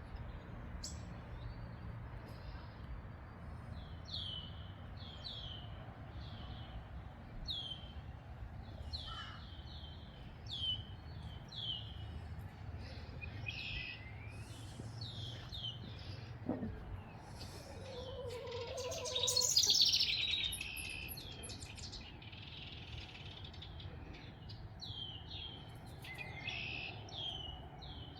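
Wild songbirds chirping in a spring backyard: a steady run of short, high, downward-sweeping chirps, often in quick pairs. About two-thirds of the way through comes a louder, buzzier burst lasting a second or two, over a faint steady low rumble.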